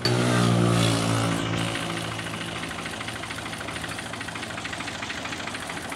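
Tractor engine running, louder for about the first one and a half seconds, then settling back to a steady idle.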